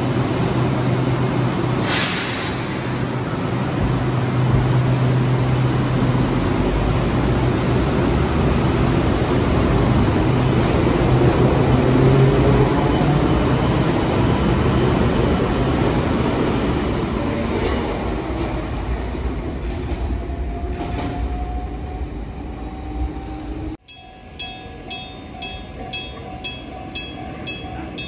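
Enoshima Electric Railway train running beside the platform, its electric motors humming under wheel and track noise, with a whine that rises slowly in pitch as it gathers speed. After a sudden cut near the end, a railway crossing bell rings steadily, about two strikes a second.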